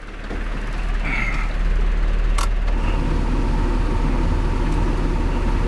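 Mitsubishi Pajero's 4D55 turbo-diesel engine idling steadily, not yet warmed up. A sharp click sounds about two and a half seconds in, and a faint steady whine joins shortly after.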